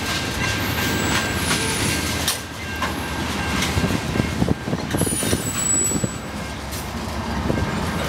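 Freight train tank cars rolling past at speed: a steady rumble of steel wheels on rail, with clicks over the rail joints and a few short, high wheel squeals.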